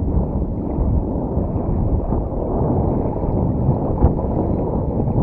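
Strong wind buffeting the microphone: a steady, loud low rumble, with one short click about four seconds in.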